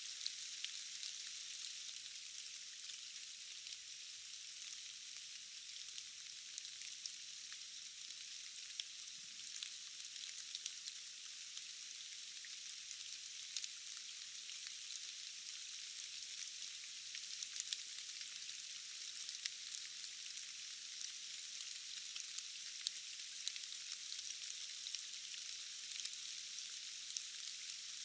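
Steady rain: a dense, even hiss of falling drops with many small ticks from individual drops, high-pitched with no low rumble.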